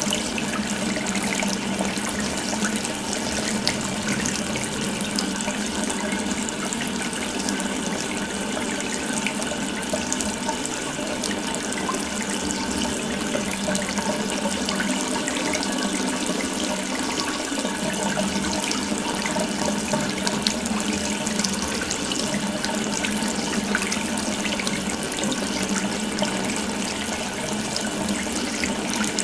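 Water running steadily from an open tap, a continuous even splashing stream with no change in flow.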